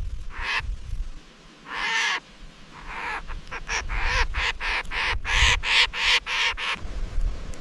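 African grey parrot giving harsh, rasping calls: a single call, then a longer one, then a quick run of calls lasting about four seconds, with a low rumble underneath.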